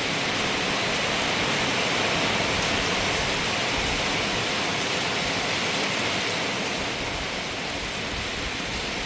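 Heavy rain falling steadily, with rainwater pouring down from the roof drain.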